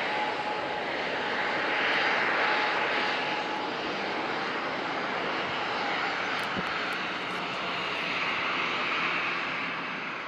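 Jet engine noise from a landing Boeing 737-800's CFM56-7B turbofans: a steady rushing sound that swells about two seconds in and again near the end, with a faint thin whine that fades out about halfway.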